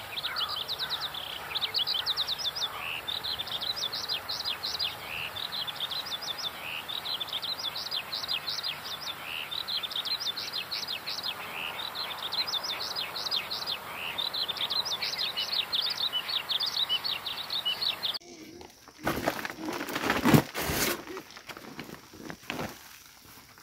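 Small birds chirping steadily outdoors, a dense run of quick, high, falling chirps. Near the end the background changes abruptly and rustling and handling knocks take over, one sharp knock being the loudest sound.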